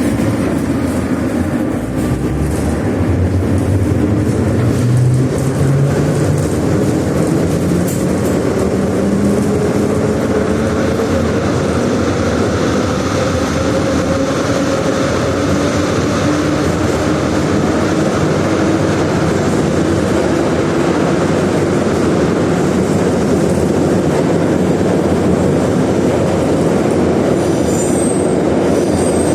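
81-717/714 'Nomernoy' metro train pulling away and gathering speed: its traction motor and gear whine rises slowly and steadily in pitch over a steady rumble of wheels on rail.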